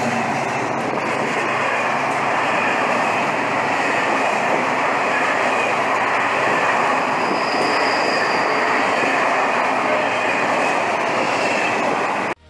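Passenger coaches of a long train rolling past close by: a steady noise of steel wheels on the rails that cuts off suddenly near the end.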